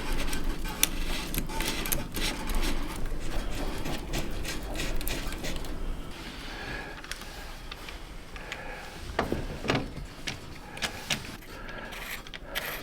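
Hand tools at work on a motorcycle's front end while the top yoke and forks are fitted: a busy run of quick metallic clicks and clatter for the first half, then sparser knocks, with a few louder ones near the end.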